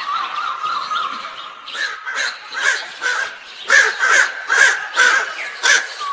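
Crows cawing repeatedly, the calls coming closer together and louder from about two seconds in.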